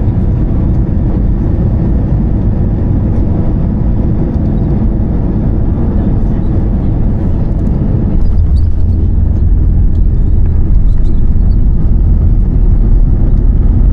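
Airbus A320-214 cabin noise: a steady low rumble of engines and airflow that grows louder about eight seconds in.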